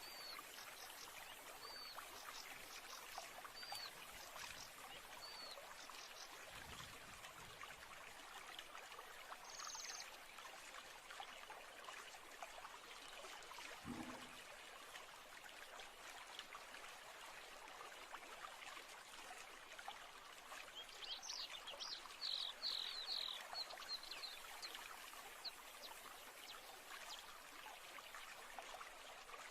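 Steady trickling stream with small birds chirping over it: a short call repeated every second or two early on, and a louder run of chirps about two-thirds of the way through.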